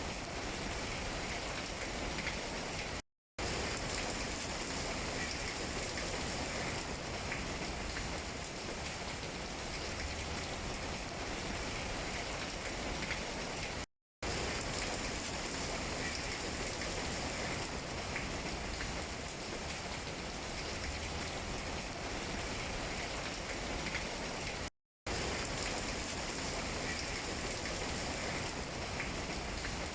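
Steady rain falling on tree leaves, with scattered individual drop taps. The sound cuts out to silence for a split second three times.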